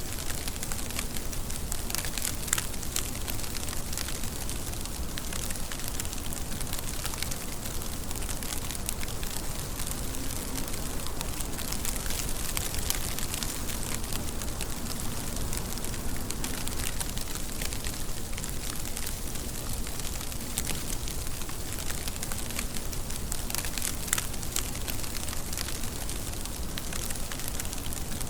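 Steady rain, a dense patter of drops with sharper single drop ticks scattered through it.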